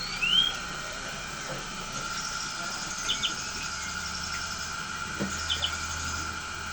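Birds calling: a rising whistle right at the start, then short paired chirps twice, about two seconds apart, over a steady high drone.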